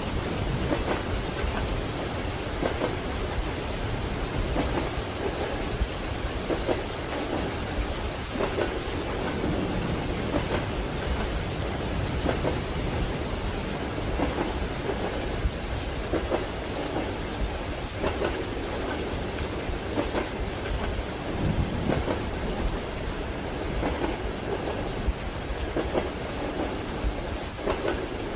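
Steady rain pattering on a train compartment window over a low, constant rumble from the moving train. Soft knocks recur every second or two.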